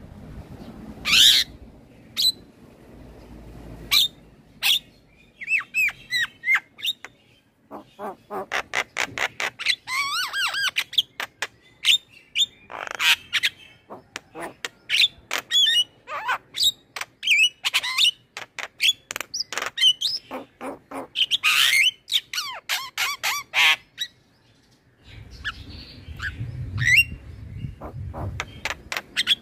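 Male Javan myna singing a fast, varied run of sharp whistles, chattering notes and harsh squawks, with a short pause near the end.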